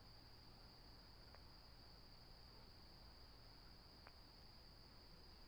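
Faint, steady high-pitched trill of crickets, otherwise near silence, with two faint ticks.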